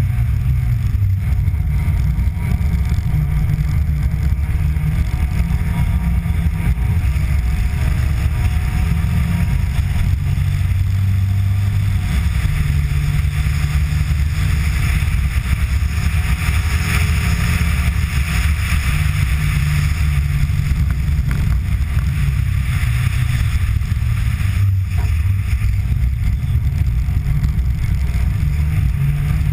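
Rally car engine under hard driving on a snowy track, its note stepping up and down every few seconds with throttle and gear changes, over a steady hiss of wind and tyre noise heard from a bonnet-mounted camera.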